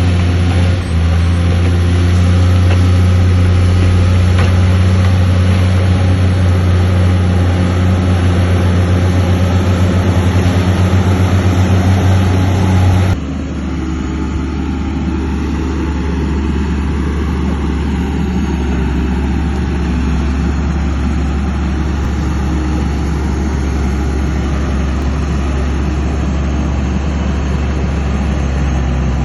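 Heavy diesel engine of earthmoving machinery running steadily. About halfway through, the sound changes abruptly to a quieter, slightly lower engine drone.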